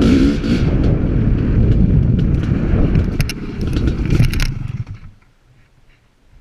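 Dirt bike engine running with loud rattling and scraping clatter, then the noise drops away abruptly about five seconds in.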